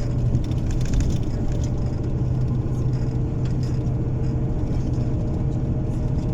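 Bus engine and road noise heard from inside the moving bus: a steady low drone with a faint thin whine above it.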